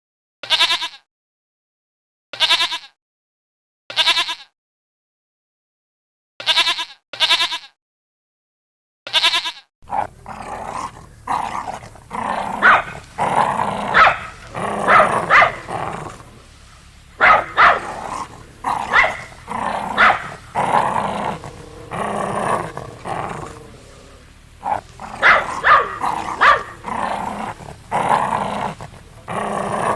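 About six short, wavering bleats, each separated by silence, over the first ten seconds. Then, from about ten seconds in, a dog barks and growls again and again over a steady background noise.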